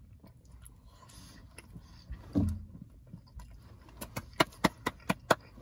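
Chewing a mouthful of chili-topped hot dog and bun, quiet at first, with a brief low murmur about two seconds in, then a run of sharp wet lip smacks near the end, about five a second.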